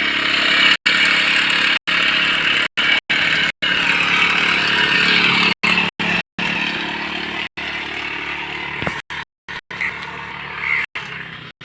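Small engine-driven insecticide sprayer running steadily at high speed while buffaloes are sprayed against flies and ticks; the sound cuts out briefly several times.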